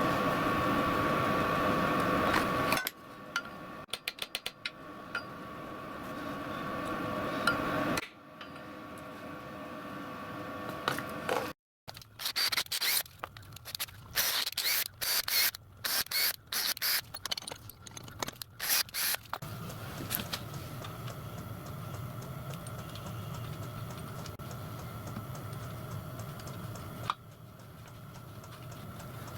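Metalworking machine running steadily, then a run of irregular sharp metal clicks and scrapes from hand work, then a machine running again, with several abrupt breaks between them.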